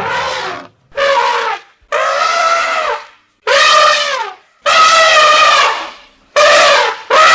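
Elephant trumpeting: a run of about seven short, loud, brassy calls, one after another, some dropping in pitch at the end.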